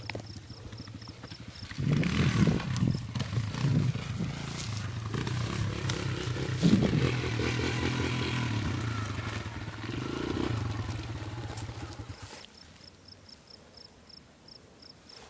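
Yamaha TT-R125 dirt bike's small single-cylinder four-stroke engine running under throttle, getting louder about two seconds in and fading out around twelve seconds in.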